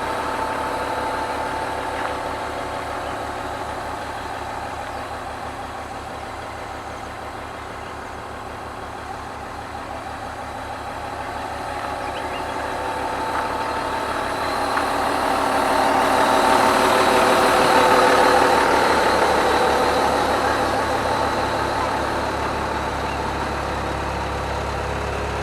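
Diesel engine of a road roller running steadily while compacting asphalt, growing louder as it comes close about two-thirds of the way through, then fading again.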